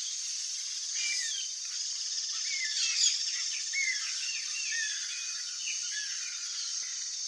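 Birds calling in a string of short, sliding chirps, busiest from about a second in to five seconds, over a steady high-pitched insect-like buzz.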